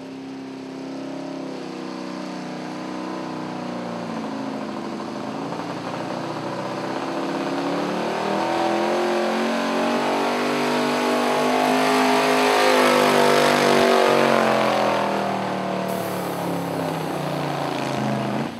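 Engine of a pulling vehicle running hard under load during a pull. Its pitch wavers and climbs, it grows louder to a peak about two-thirds of the way through, then eases off.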